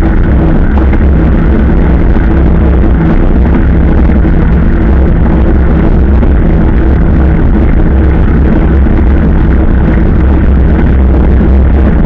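Motorcycle engine running at a steady, even speed while riding, loud and close, with a constant low drone and a haze of road and wind noise.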